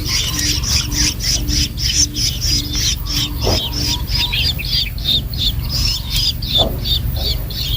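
Long-tailed shrikes (cendet) calling: a rapid, continuous run of high chirps, about four to five a second, over a steady low rumble.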